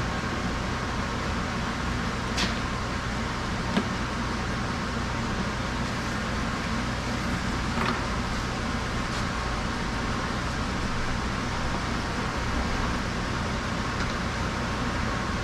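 Steady mechanical hum and hiss, with a few short sharp clicks or taps, about 2.5, 4 and 8 seconds in.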